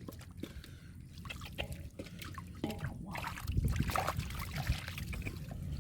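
Shallow muddy water splashing and sloshing as hands work through it, with many short wet clicks and drips; it gets louder and busier about three seconds in.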